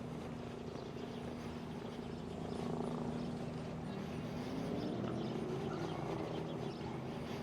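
Steady motor hum with a tone that rises in pitch about four seconds in, swelling louder twice.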